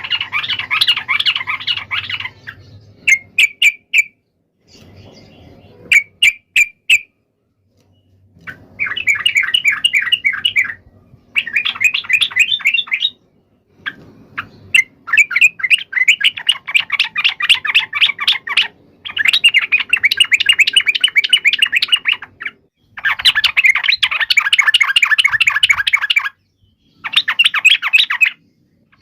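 Yellow-vented bulbul giving its loud chattering fighting call: bursts of rapid notes, each one to four seconds long with short breaks between, plus a few brief sharp notes a few seconds in.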